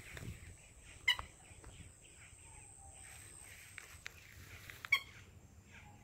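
Birds calling: two loud, short calls, one about a second in and one near the end, over softer scattered chirps and a faint falling whistle.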